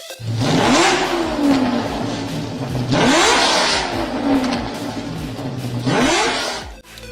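A car engine revved hard three times, pitch climbing quickly and then falling back each time, with loud exhaust noise on each rev.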